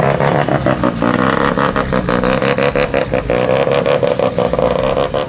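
Car engine running loud at high revs, holding steady, with a rapid crackle over it.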